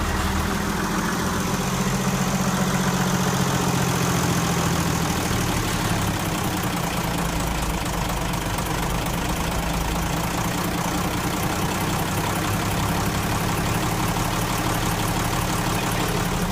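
Ford Lehman 120 six-cylinder marine diesel running steadily on its test run, fed by a freshly rebuilt injection pump.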